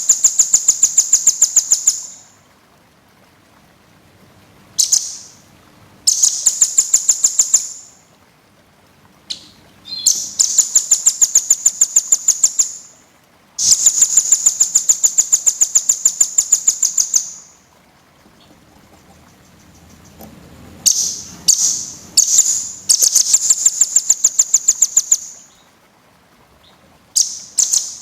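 Small songbird, the 'burcil' of bird-keepers' masteran recordings, singing dense, high-pitched rapid trills: fast runs of evenly repeated notes, about ten a second, in bouts of one to four seconds with short pauses between.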